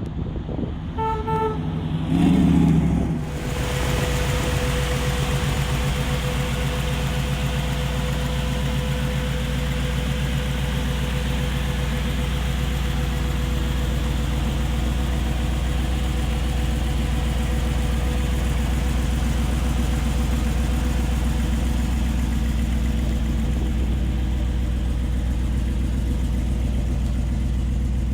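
A short car-horn toot about a second in, then the Chevrolet Impala SS's freshly rebuilt 327 cubic-inch V8 fires up with a brief loud burst and settles into a steady idle.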